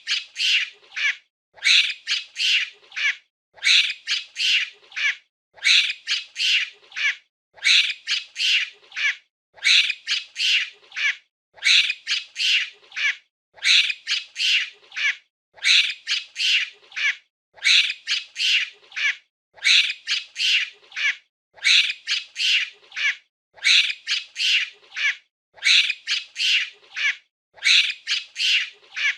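Monkey calling: short high-pitched calls in groups of three or four, the same group repeating about every two seconds in an even, looped pattern.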